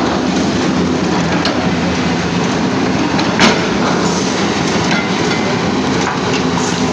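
Demolition of buildings: crunching and splintering of broken wood and debris over a steady low hum, with one sharp crack about three and a half seconds in.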